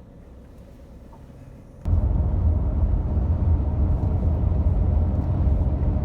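Minivan driving on the highway: steady low road and engine rumble heard from inside the cabin, which comes in abruptly about two seconds in after a quieter stretch.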